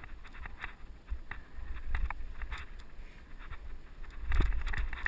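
Wind buffeting a helmet-mounted GoPro's microphone on a moving mountain bike, with scattered clicks and rattles from the bike and trail. The rumble swells about two seconds in and again near the end.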